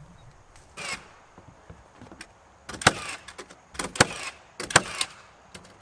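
Pneumatic nail gun driving nails into framing lumber: a sharp shot with a short hiss about a second in, then three loud shots roughly a second apart.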